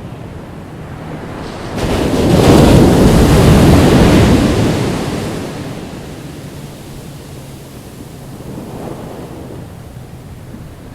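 Ocean waves breaking on a beach: one large wave crashes about two seconds in and washes out over the next few seconds, with a smaller one later.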